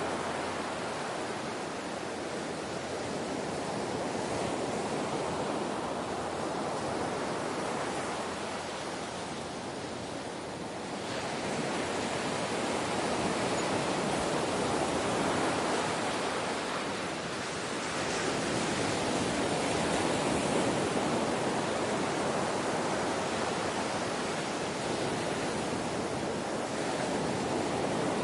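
Ocean waves washing onto a shore, a continuous rush of surf that swells and eases slowly, with a lull about ten seconds in and another near the middle.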